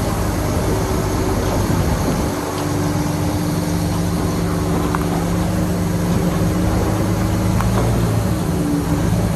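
Shantui bulldozer's diesel engine running steadily under work, its pitch stepping up slightly about two seconds in, with a couple of faint clinks.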